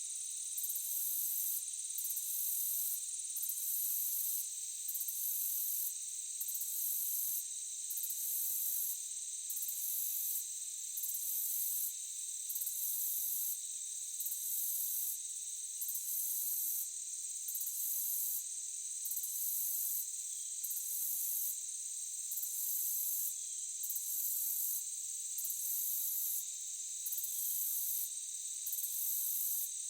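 Night insects chorusing, crickets among them: a steady high-pitched drone with a still higher trill that pulses on and off about every second and a half.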